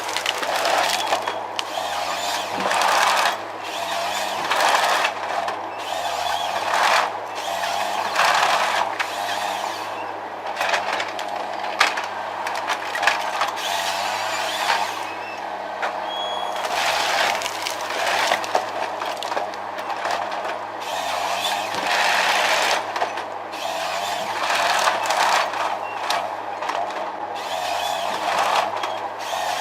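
Heavy machinery running: a steady engine hum under loud rough bursts that come every one to two seconds.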